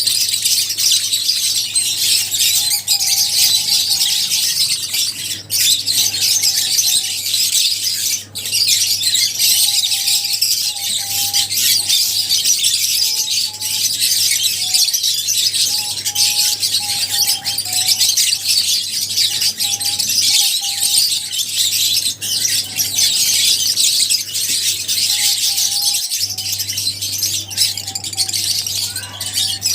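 A flock of lovebirds chattering continuously: a dense mass of high-pitched chirps and squeaks, with short lower notes now and then.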